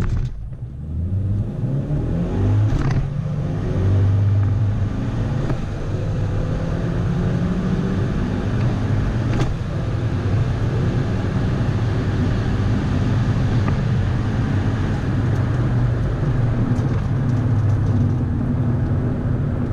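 A car engine running with a low, steady drone, its pitch rising briefly in the first few seconds as the engine speeds up.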